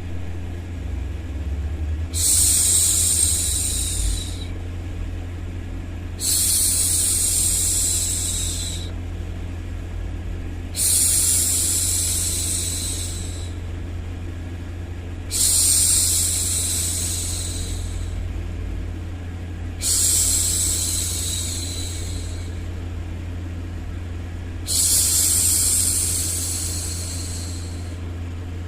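A woman hushing a baby with a long 'shhh', six times, each about two seconds long and about every four to five seconds, over a steady low white-noise hum.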